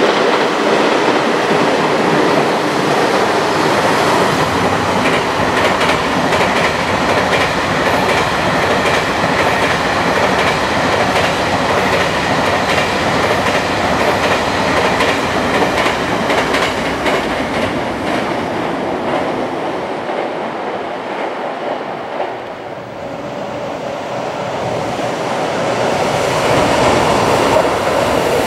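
Long freight train of container wagons passing on viaduct slab track, its wheels clattering in a rapid, continuous clickety-clack over the slab joints. The clatter fades a little past two-thirds of the way through, then builds again near the end as another freight train draws near.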